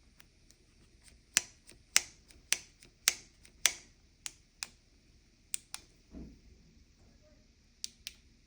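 Sharp clicks of control buttons being pressed again and again, irregularly, about a dozen in the first four seconds and fewer after, while the TFT display fails to come on. A short dull thump about six seconds in.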